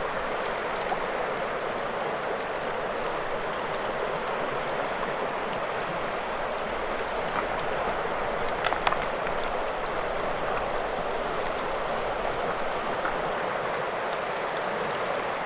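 Steady rush of a fast-flowing mountain river, with a few brief clicks about nine seconds in.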